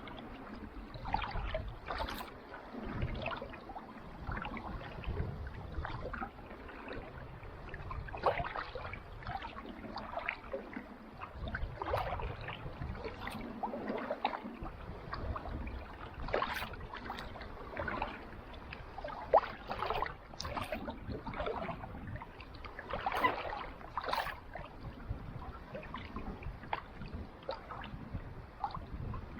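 Kayak paddle dipping into calm sea water, with small splashes and drips from the blade coming irregularly about every second.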